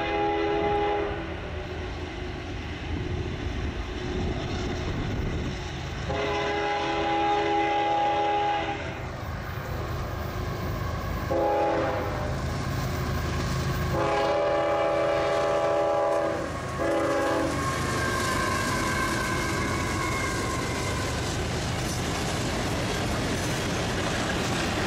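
Multi-tone air horn of a CSX freight train's lead diesel locomotive sounding a series of long and short blasts, as for a grade crossing, over the steady rumble of the locomotives' diesel engines. After the last short blast the passing locomotives and wagons keep rumbling.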